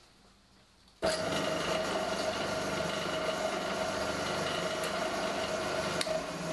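Workshop machinery switching on about a second in and running steadily with a steady whine: the drilling-milling machine and the vacuum dust extractor drawing through its automatic blast gate. A sharp click comes near the end.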